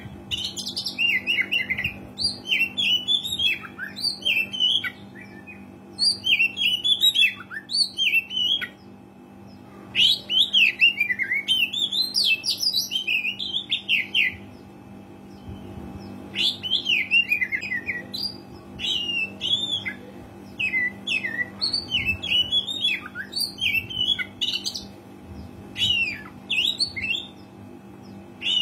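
Oriental magpie-robin singing: rapid, varied bursts of whistles and chattering notes, broken by short pauses, over a faint steady hum.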